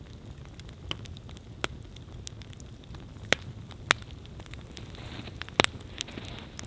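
Wood campfire crackling: sharp pops about every second over a steady low rumble and hiss of burning. The loudest is a double pop near the end.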